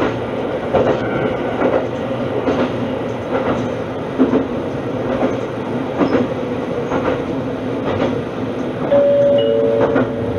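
Diesel railcar running along jointed single track: steady running noise with wheels clacking over the rail joints about once a second. Near the end a brief two-note steady tone sounds.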